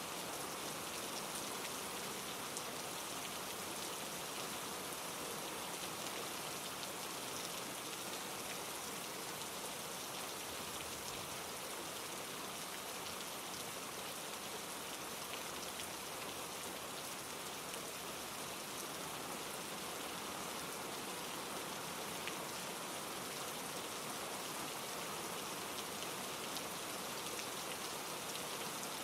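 Steady rain falling and pattering on leaves and rocks, with fine scattered drop ticks, over the even rush of a mountain stream tumbling over granite rocks.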